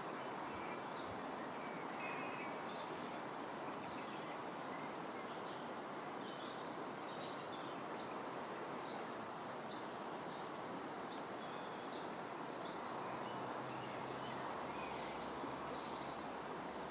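Small birds chirping repeatedly with short, high calls over a steady rushing background noise.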